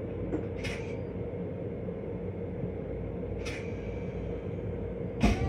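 Steady rumble and hum of an M7 electric railcar heard inside its small restroom, with two short hisses and a louder, sharper burst near the end.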